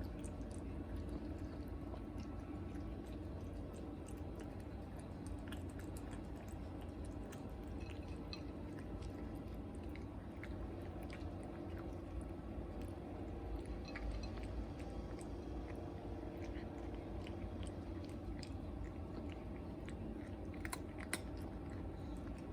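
Cat chewing and eating his food, with small irregular clicks and crunches over a steady low hum.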